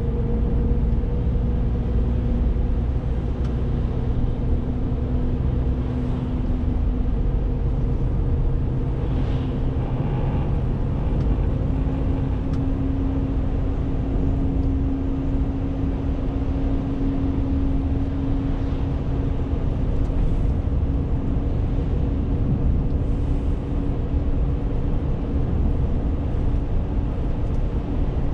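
Renault T520 truck's 13-litre six-cylinder diesel running steadily while driving, with a low rumble of engine and road noise and a steady hum whose pitch creeps up slightly in the first half.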